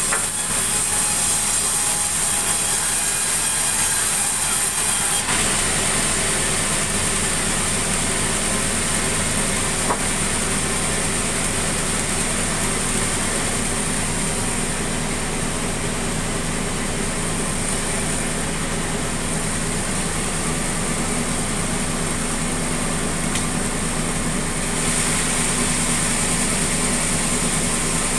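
Sawmill machinery running steadily: a constant engine drone with a hiss on top, whose character shifts slightly about five seconds in and again near the end.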